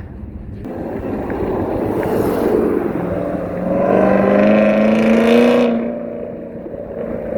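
Car engine accelerating hard past, its pitch climbing and growing louder for a few seconds, then fading as it pulls away.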